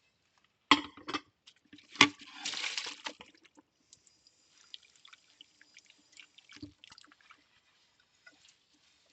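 Ceramic plates being hand-washed: two sharp clinks of plate against plate or sink, the second followed by a short splash of water, then faint small knocks and water sounds.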